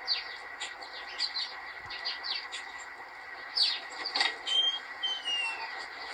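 Small birds chirping in quick, repeated downward-sliding notes, played through a TV's speaker over a steady hiss. A few louder calls come in the middle, and two longer falling whistles follow about five seconds in.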